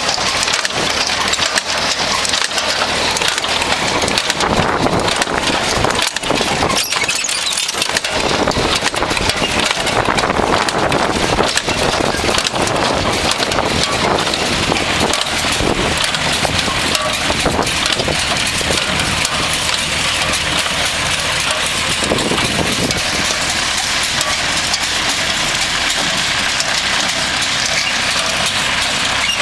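Farm tractor engine running steadily, with heavy wind noise on the microphone.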